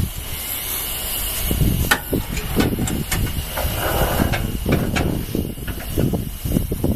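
Zao Sangyo Armadillo AM9D-III road sweeper running: an uneven low rumble with a steady hiss and scattered sharp clicks, and a brief rush of noise about four seconds in.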